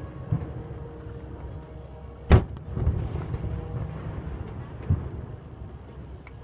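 Fireworks going off: one loud, sharp bang a little over two seconds in, followed by a low rumble, with softer thumps near the start and about five seconds in.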